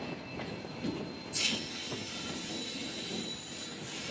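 Train running on the rails, a steady rumble, with a short sharp burst of air hiss about a second and a half in.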